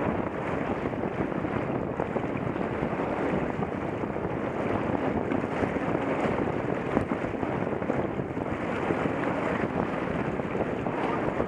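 Steady wind buffeting the microphone of a Contour action camera, a continuous rushing noise with no breaks.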